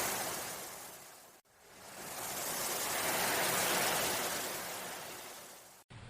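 Ocean waves surging and washing away: one swell fades out about a second and a half in, then another builds and dies away, cut off abruptly near the end.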